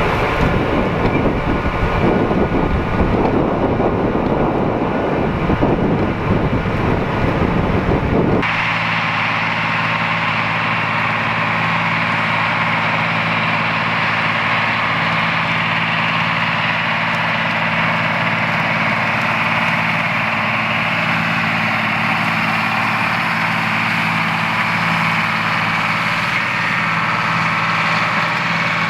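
A farm tractor's diesel engine running steadily. For the first several seconds it is buried in wind noise on the microphone. Then, with a sudden change about eight seconds in, it becomes a clean, even engine hum.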